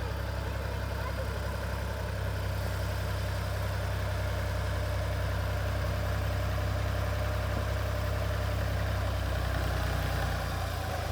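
Tractor diesel engine running steadily. It picks up slightly about two seconds in and slows near the end.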